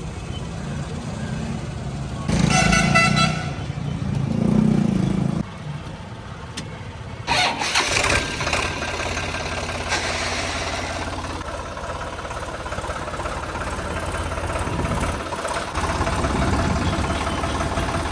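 A vehicle horn honks once for about a second, about two seconds in, over a diesel tractor engine running. The engine surges loudly about four seconds in and runs louder and noisier from about seven seconds in.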